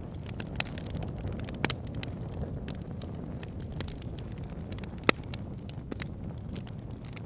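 Wood fire burning in a fireplace: a steady low rumble of flames with irregular sharp crackles and pops from the burning wood, the loudest pop about five seconds in.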